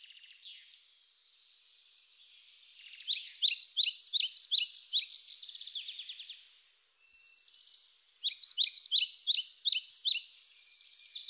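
Songbirds singing: faint trills, then two bouts of rapid, evenly repeated chirping notes, each lasting about two seconds, with softer calls between them.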